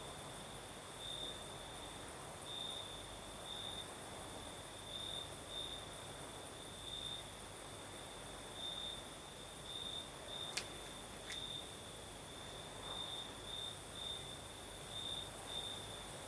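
Crickets singing at night: a continuous high-pitched trill that swells and fades in uneven pulses, over a soft hiss of night breeze. Two sharp clicks come about ten and eleven seconds in.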